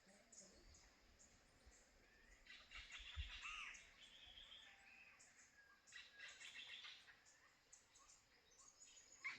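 Faint chirps of birds calling, coming in short bursts of several calls at a time.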